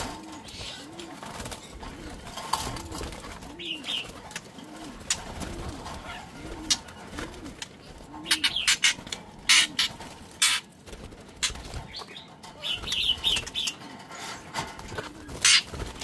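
A bird cooing low and evenly, about three coos every two seconds, with a few short high chirps from caged songbirds. In the second half come sharp rattles of a wire cage and wing flutter as a bird is caught by hand inside the cage.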